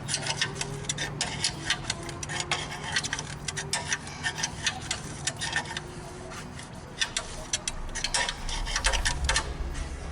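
Irregular rapid clicks and taps from hand-tool work on a steel trench drain channel, over a steady low hum.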